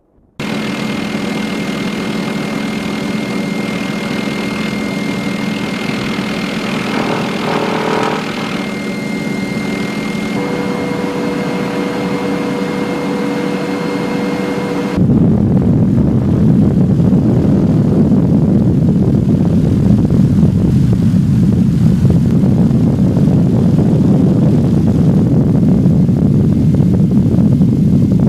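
Aircraft engines running steadily with several held tones, then an abrupt change about fifteen seconds in to a louder, rougher low rumble.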